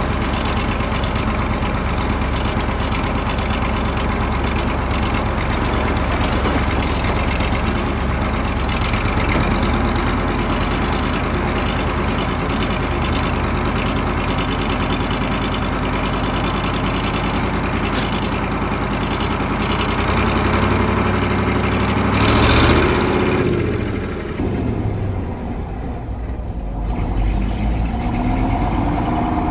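KAMAZ 4310 6x6 truck's V8 diesel engine running while the truck drives. About 22 seconds in there is a brief loud rush of noise as the engine note rises and falls. The engine then goes quieter and rises in pitch again near the end.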